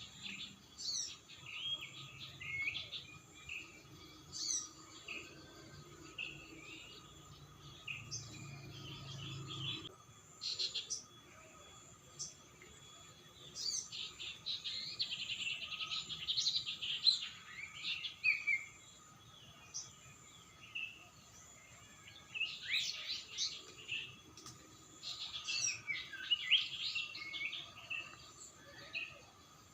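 Wild birds chirping and trilling in short, overlapping calls, busiest in two spells about halfway through and near the end, over a faint steady whine.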